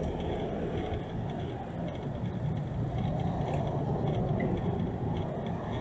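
City street ambience with steady motor traffic.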